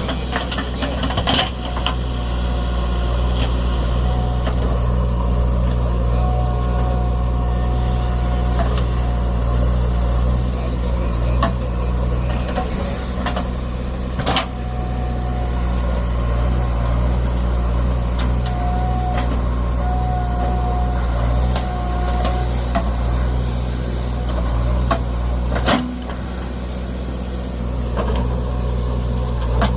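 Heavy diesel machinery engine running steadily, with a few sharp knocks scattered through it.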